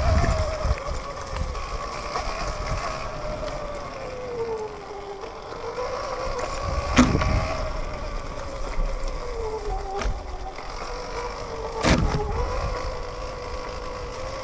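Sur-Ron electric dirt bike motor whining, its pitch falling and rising twice as the speed changes over rough trail. Sharp knocks about halfway through and again near the end.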